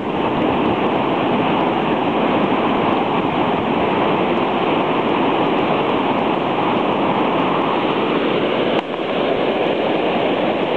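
Steady rushing of storm-surge surf breaking and washing up against the seawall where the beach usually is. There is a brief drop in level about nine seconds in.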